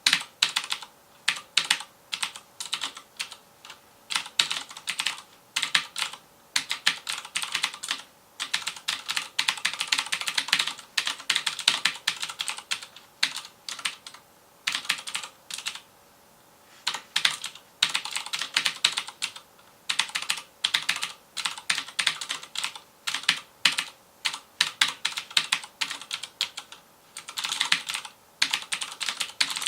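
Rapid typing on a FILCO Majestouch Convertible 2 mechanical keyboard with Cherry MX Blue switches: dense runs of sharp, clicky keystrokes, broken by a couple of short pauses.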